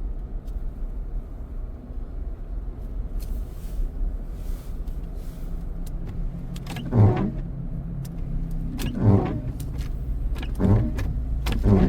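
Steady engine and road hum inside a car's cabin. In the second half, four short rough scrapes about every one and a half to two seconds, which fit windshield wipers dragging over ice on the glass.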